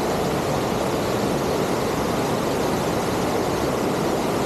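Steady, loud rush of a big monsoon waterfall and its falling water, an even roar with no let-up.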